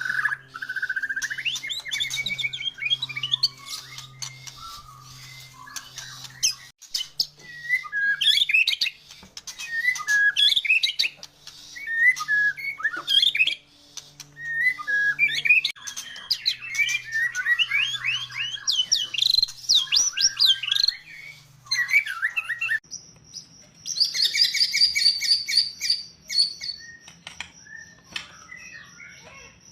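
White-rumped shama (murai batu) in full song: varied whistled phrases and rapid trills in bursts with short pauses between them. About two-thirds of the way through, a steady high thin tone comes in under the song.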